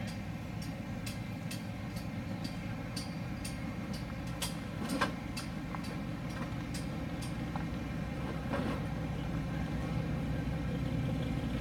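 Rat rod's engine idling steadily, with a faint regular tick about twice a second. The engine gets slightly louder about eight seconds in.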